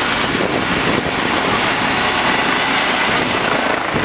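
Trauma helicopter's turbine engine and rotor running close by: a loud steady rush with a thin high turbine whine that rises slightly in pitch.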